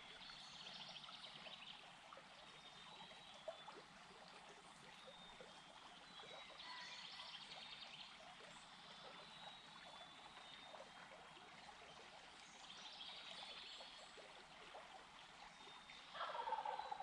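Wild turkey gobbling, faint: three rattling gobbles about six seconds apart. A louder call falls in pitch near the end.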